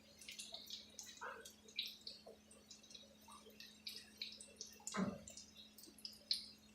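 Paneer tikka pieces coated in crushed papad deep-frying in hot oil in a frying pan: faint, irregular crackling and popping, with one sharper crack about five seconds in.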